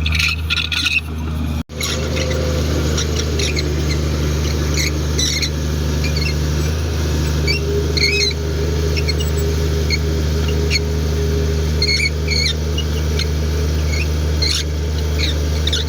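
Komatsu D58 bulldozer's diesel engine running steadily at a low, even pitch, with short high-pitched squeaks coming and going throughout.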